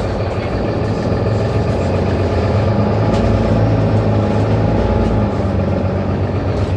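Mercedes-Benz Citaro C2 city bus engine running steadily, heard from aboard the bus, with a deeper rumble swelling for a couple of seconds in the middle.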